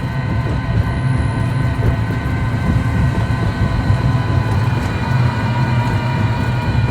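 Ride-on electric toy truck running steadily, its motors giving a whine of steady tones over the low rumble of its wheels on pavement.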